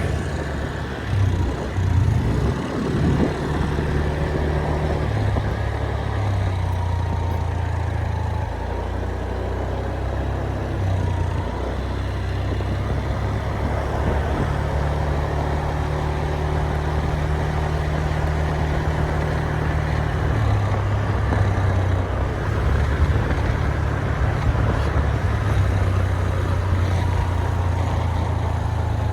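Steady low rumble of a running motor vehicle, its pitch shifting in steps every few seconds.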